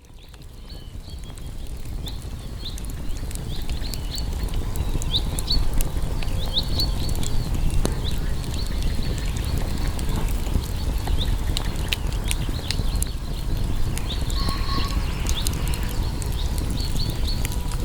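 Wood campfire burning: a steady low rumble of flames with frequent sharp crackles and pops, fading in over the first couple of seconds. Faint short high chirps sound now and then above it.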